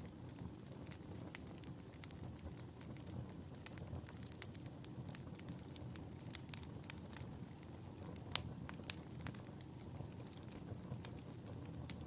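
Wood fire in a fireplace crackling: irregular snaps and pops over a low, steady rustle of the flames, with one sharper pop about two-thirds of the way through.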